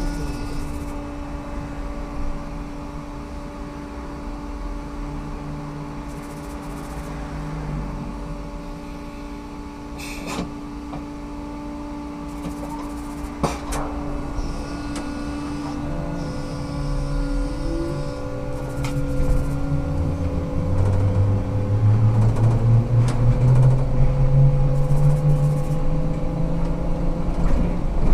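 Ikarus 280T trolleybus with GVM electric traction equipment running, with a steady electrical hum and a couple of sharp clicks near the middle. Over the last ten seconds a low whine rises in pitch and grows louder as the bus picks up speed.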